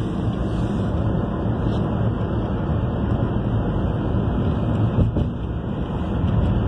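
Steady low rumble of a vehicle in motion, with no clear rhythm or pitch changes.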